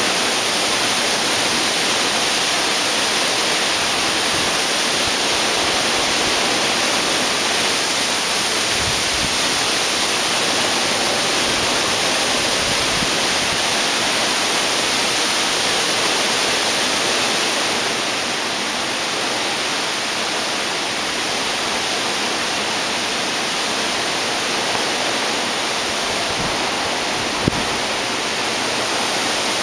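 Hurricane storm wind, a dense, steady rushing noise that eases slightly about two-thirds of the way through. One sharp tap near the end.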